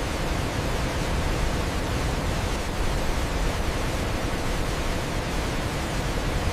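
Waterfall: a steady, even rush of falling water, deep and full across the range, with no change or separate events.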